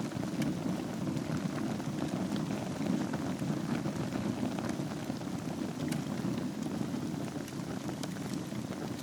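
Wood fire burning in a fireplace over its embers: a steady low rushing of the flames with scattered faint crackles and pops.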